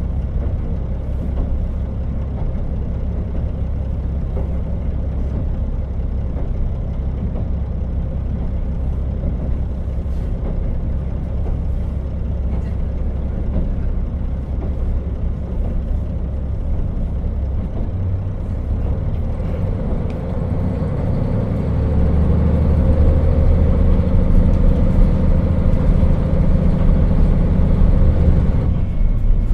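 KiHa 40 diesel railcar running along the line: a steady low rumble of engine and wheels on rail. About three quarters of the way in, the engine's drone grows louder and fuller.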